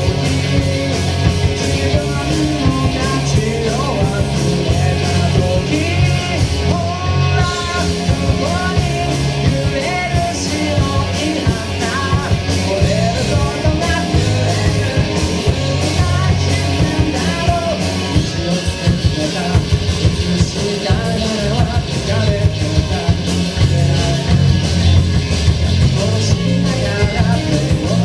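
Live rock band playing a song: drum kit, bass guitar and electric guitar under a singer's voice, loud and steady.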